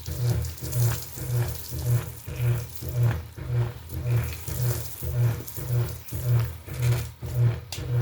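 Washing machine agitating: a low motor hum swelling and fading about twice a second, with water sloshing in the tub.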